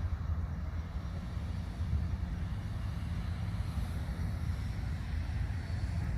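A steady low rumble with a faint hiss above it, even throughout.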